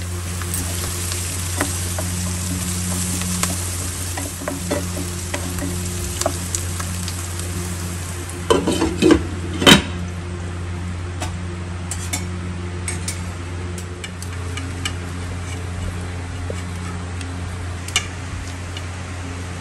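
Onions sizzling as they fry in oil in a pan, with light stirring clicks over a steady low hum. About nine seconds in, a cluster of loud knocks and clatters comes as a glass lid is set on the pan.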